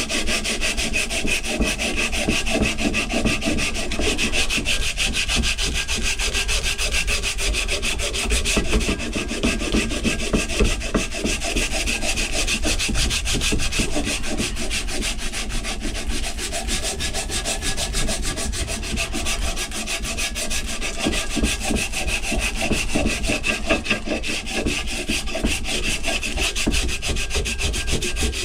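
Continuous abrasive scrubbing against the steel of a Plumb axe head, taking off the rust.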